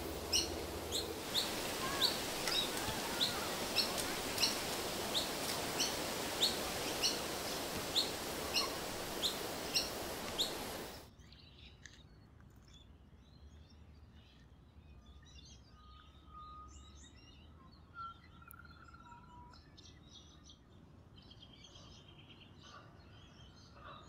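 A small bird repeating a short, high chirp about one and a half times a second over a steady hiss of outdoor background noise. Both stop abruptly about eleven seconds in, leaving only faint, scattered bird calls.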